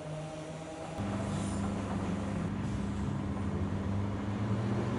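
Former London Underground tube-stock electric train running on the Island Line: a steady hum and rumble, which steps up louder about a second in as the train passes close by.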